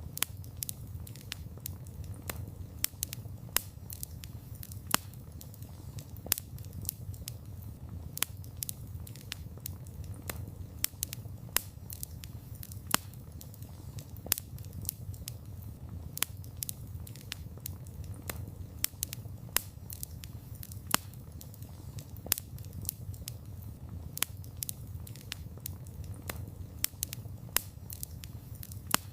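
Campfire of burning wood crackling and popping: many sharp, irregular pops a few times a second over a low, steady rumble of flames.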